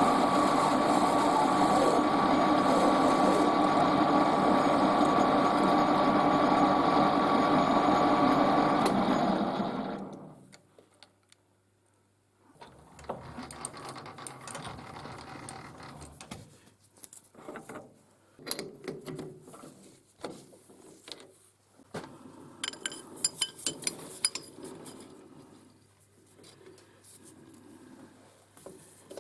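Metal lathe running steadily with a constant whine, then spinning down to a stop about ten seconds in. After that come light clinks and taps of metal tools being handled, with a quick run of sharp taps near the end.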